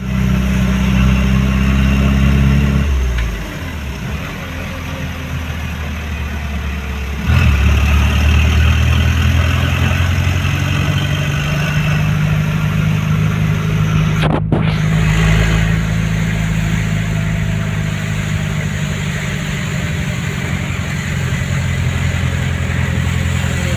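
An engine running steadily with a low hum. It drops to a lower level about three seconds in and picks up again sharply about seven seconds in.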